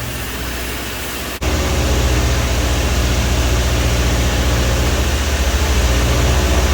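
JLG boom lift's engine running steadily, then suddenly louder and heavier about a second and a half in, as it works to raise the platform.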